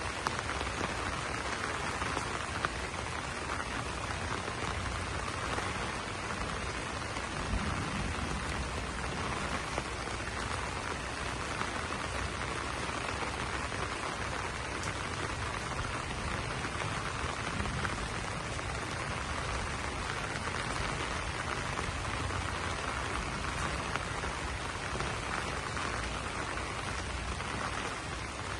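Steady rain falling on banana leaves.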